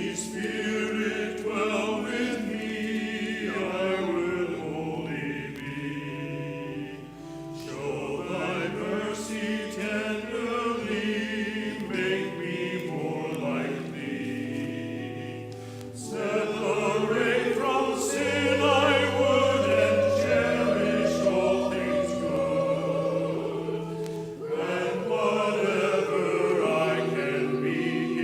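Church choir singing, with an accompanying instrument holding long steady chords beneath the voices; it grows louder about halfway through.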